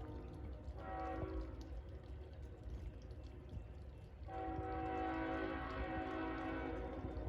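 CSX freight locomotive's air horn sounding a short blast about a second in, then a long blast from about four seconds in, over a steady low rumble.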